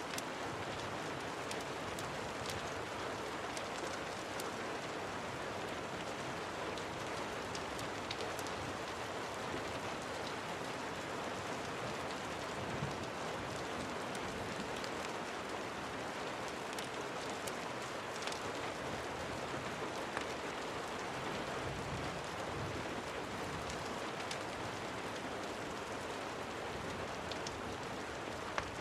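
Steady rain falling, an even hiss with scattered small sharp clicks.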